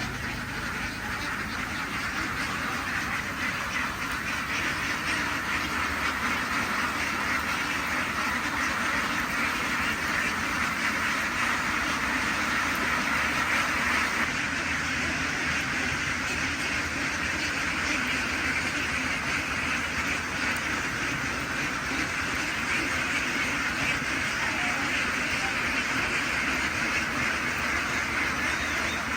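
A large flock of farm ducks quacking all at once, a dense, unbroken chorus that holds steady.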